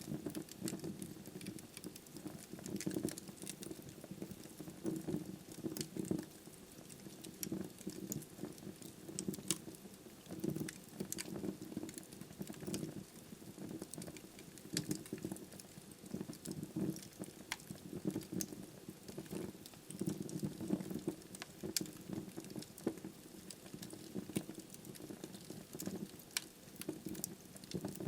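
Wood logs burning in a fireplace: a low, fluttering rumble of flame with frequent sharp, irregular crackles and pops from the burning wood.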